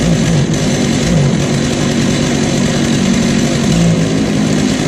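Small two-stroke fire-service saw engine running just after a choke start, its pitch wavering slightly as it warms up.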